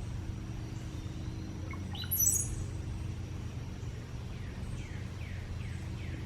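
Cowbird singing: a short gurgling, liquid run of rising notes about two seconds in, ending in a thin, very high squeal. Later comes a steady series of short falling chirps, about two a second.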